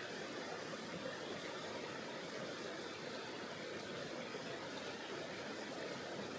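Tonghou River flowing: a steady, even rush of water with no breaks.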